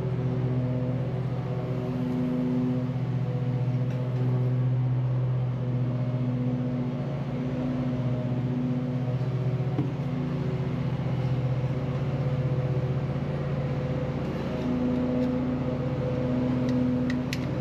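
Steady machine hum with a higher tone that swells and fades every second or two.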